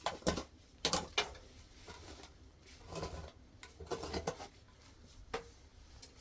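Irregular knocks and clatter of objects being handled, about ten sharp hits and short scraping noises spread unevenly through a few seconds.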